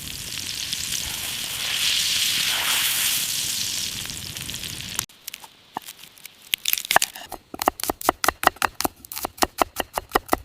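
Food sizzling in a hot pan for about five seconds, cut off abruptly. After a short pause, a knife starts chopping on a cutting board in quick, regular strokes, about four a second, as herbs are finely minced.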